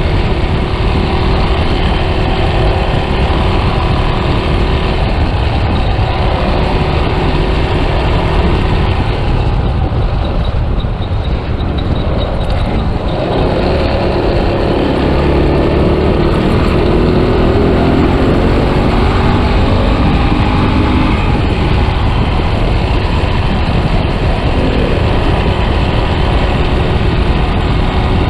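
Yamaha Scorpio's single-cylinder four-stroke engine running on the move, with wind rumbling over the microphone. The engine note eases off about ten seconds in, then rises again as the bike picks up speed.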